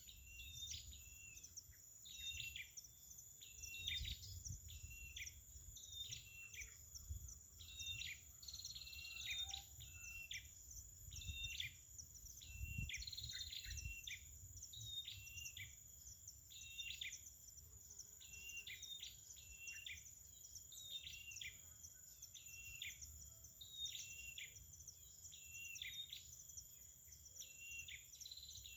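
Perenjak songbird calling: a short, high, downward-sliding note repeated about twice a second without a break, used to lure perenjak to the trap. A faint steady high-pitched whine lies beneath it.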